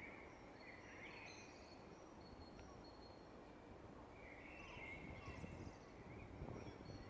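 Several birds singing faintly over a steady low background hiss: short warbling phrases about a second in and again around five seconds in, with thin high whistles scattered between.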